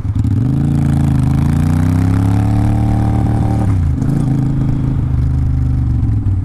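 Triumph Speedmaster 865cc parallel-twin motorcycle engine accelerating: its pitch rises over the first two seconds and holds, falls sharply about four seconds in, then runs steady.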